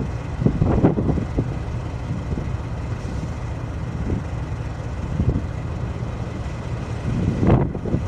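An engine running steadily at low speed, with gusts of wind on the microphone around the first second and near the end.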